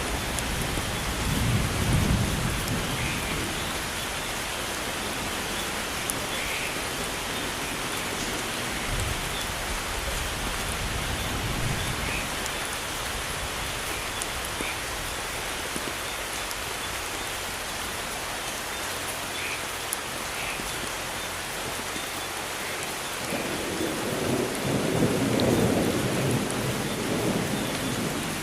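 Steady rain falling in a thunderstorm, with low rolls of thunder swelling at the start and again near the end.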